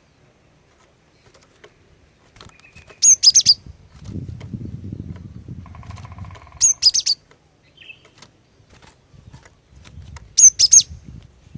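Female cinereous tit (glatik batu) calling: three short, quick clusters of high, sharp notes, one about every three and a half seconds.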